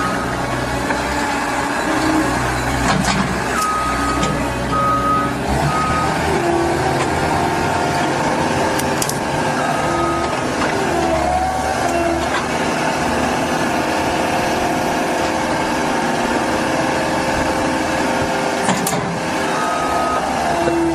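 A heavy vehicle's diesel engine running steadily, with a reversing alarm beeping in short runs of a few beeps.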